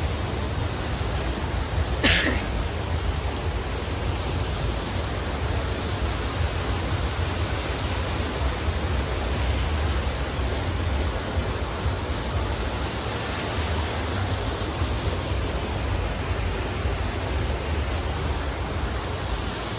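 Steady rushing outdoor noise with a heavy low rumble, and one short sharp chirp about two seconds in.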